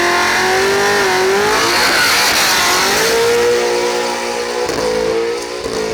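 Car engine running at high revs: a steady, loud engine note that climbs to a higher pitch about three seconds in and holds there, with two brief dips near the end.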